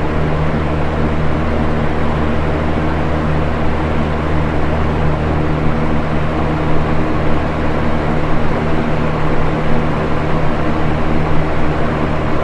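Box fan running steadily: an even rush of air over a low, steady motor hum.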